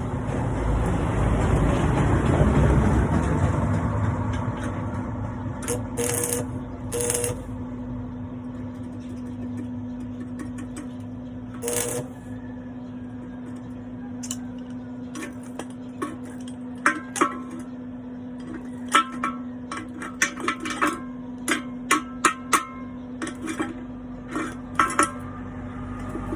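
Sharp metallic clinks and taps, many of them in quick runs through the second half, over a steady electrical hum; a louder rumbling noise fills the first few seconds.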